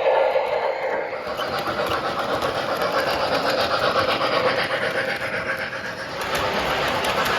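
MTH O-gauge model train running on track: a fast, even clatter of wheels over the rails with the hum of its motor.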